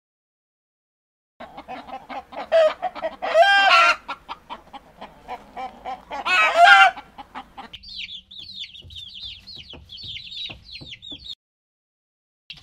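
Hen clucking in quick repeated notes, with two loud, drawn-out cackling calls. Then a run of high, thin chick peeps, each falling in pitch.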